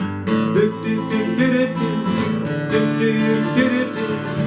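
Strummed acoustic guitar playing a steady rhythm between sung lines.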